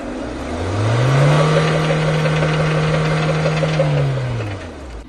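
Mahindra Thar's engine revving up hard, held high for about three seconds, then falling back, as the 4x4 sits high-centred on a mound of earth with no traction.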